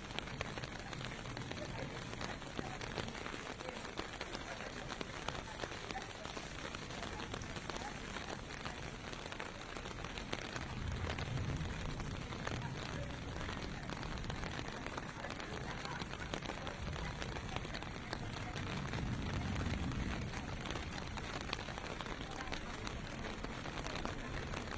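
Steady rain pelting on pavement, with fine pattering drops throughout. Low rumbles of distant traffic passing swell up about 11 seconds in and again about 19 seconds in.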